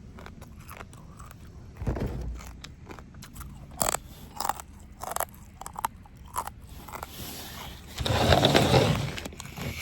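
Close-miked eating: crunchy bites and chewing with scattered sharp crackles, and a louder burst of crunching near the end.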